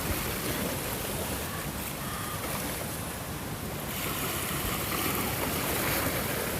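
Ocean waves washing in a steady rush of surf, swelling slightly louder about two-thirds of the way through.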